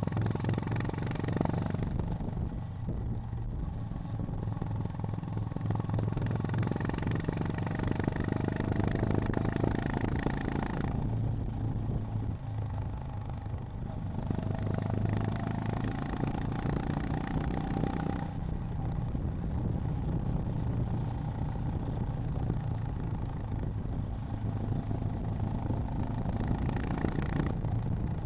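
Honda GB350's air-cooled single-cylinder engine running steadily at low road speed, its note rising and easing a little as the throttle opens and closes.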